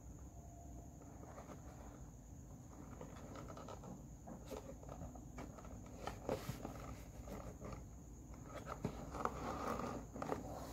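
Faint handling noises: scattered light clicks and rustling, a little busier about six seconds in and again near the end, over a steady low hum and a thin high whine.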